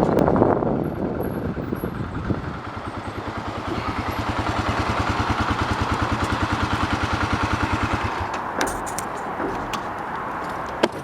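A motor vehicle engine running with a steady low pulsing, which stops abruptly about eight seconds in; a few sharp clicks follow.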